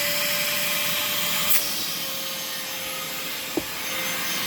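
Vacmaster 2.5-gallon, 2 HP vacuum running steadily with a high motor whine over a rush of air. The whine dips slightly in pitch about two seconds in. There is a sharp tap about a second and a half in and a brief thud later on.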